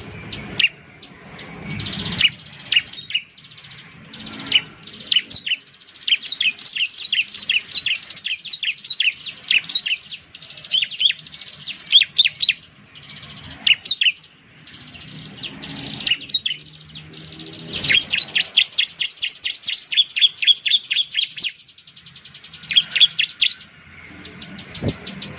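Bar-winged prinia (ciblek) singing: fast, high, chattering runs of short down-slurred notes, several a second, in bursts separated by brief pauses.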